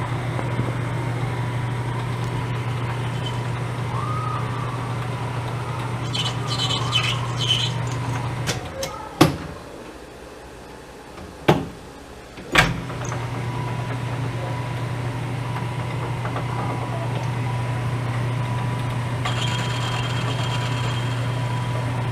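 Metal lathe motor running with a steady hum. It stops for a few seconds about eight seconds in, with a few sharp clicks and knocks, then starts again and runs on.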